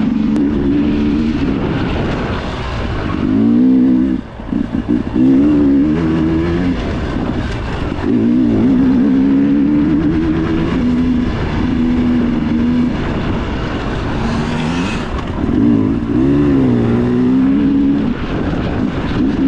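Dirt bike engine ridden hard off-road, the revs rising and falling over and over as the rider works the throttle and shifts, with a short chop of the throttle about four seconds in.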